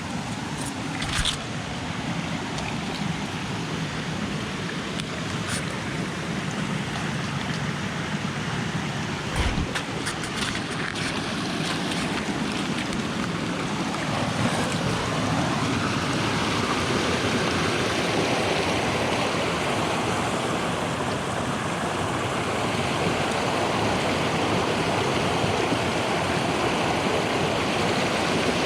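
Rushing water of a jungle waterfall stream cascading over rocks, a steady noise that grows louder about halfway through. A few short knocks come in the first ten seconds or so.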